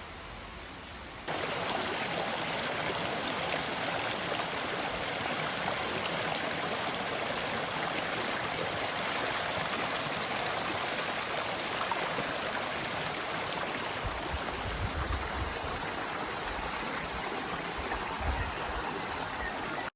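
Forest stream running, a steady rush of water that starts suddenly about a second in, with some low rumbling near the end.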